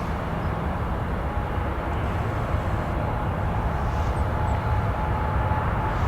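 Steady rumble of distant airliner engines, with a faint steady whine joining in about two and a half seconds in.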